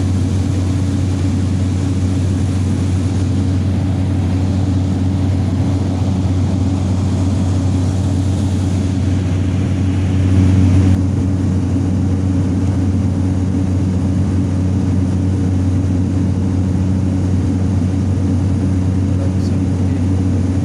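Steady, loud drone of a small propeller airplane's engine heard from inside the passenger cabin in flight, with a deep hum; it swells briefly about ten seconds in.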